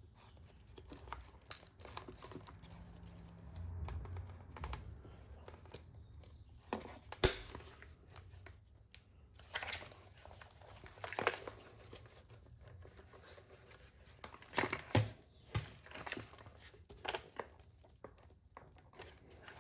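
Handling noises of an RC car being taken apart: scattered clicks, knocks and rattles of plastic body and chassis parts and small tools, the sharpest knock about seven seconds in.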